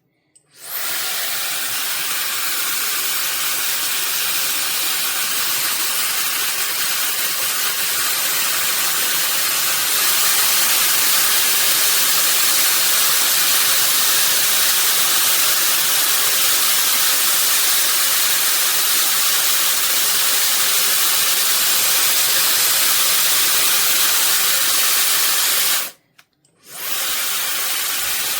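Slopehill high-speed hair dryer blowing with a steady airy hiss. It switches on just after the start, gets louder about ten seconds in as if set to a higher speed, then cuts off near the end and is switched on again.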